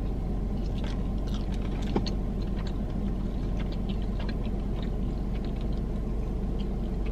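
A person chewing fried chicken, with soft, scattered mouth clicks and smacks, over a steady low hum in a car's cabin. One slightly louder click comes about two seconds in.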